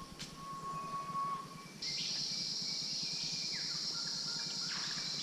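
Insects droning steadily at a high pitch, starting abruptly about two seconds in, with a few faint falling whistles over the drone. Before that there is a single short steady tone.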